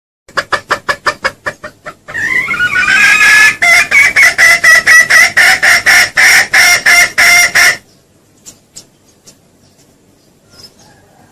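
Junglefowl lure call: a quick run of clucks, then a long rising call that breaks into a rapid, even string of loud cackling notes, about four a second. It cuts off abruptly about three-quarters of the way through, leaving faint scattered clicks.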